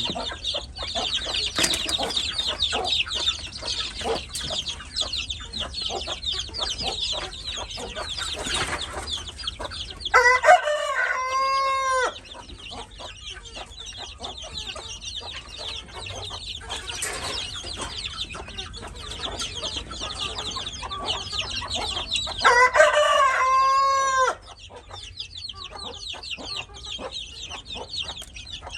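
A rooster crowing twice, each crow about two seconds long, the first about ten seconds in and the second about twenty-three seconds in. A steady high-pitched chatter runs underneath throughout.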